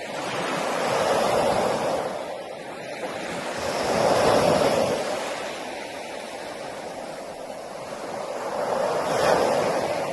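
Sea waves breaking on a beach: three waves swell up and wash out, one near the start, one about midway and one near the end.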